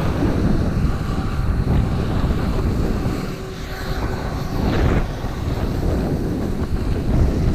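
Wind buffeting the microphone in a blizzard: a dense, steady rumble with no clear tone or rhythm.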